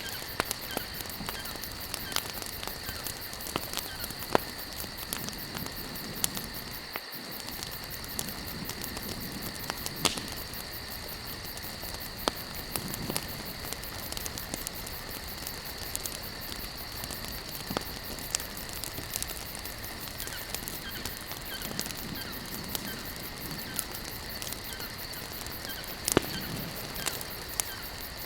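Wood campfire crackling steadily, with many small snaps and a few louder pops scattered through. A steady high-pitched chirring of insects runs underneath.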